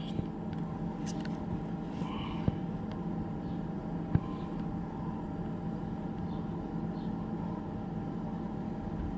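A steady low machine hum with a fainter higher tone above it, and two small knocks, about two and four seconds in.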